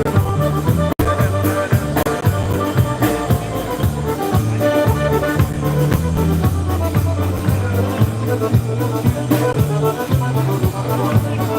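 Live polka band playing a tune with a steady, quick beat over a bouncing bass line, with a momentary dropout in the sound about a second in.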